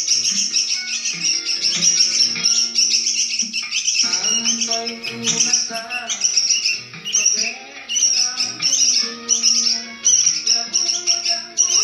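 A songbird singing continuously in rapid chirps and trills, over background music with a steady beat.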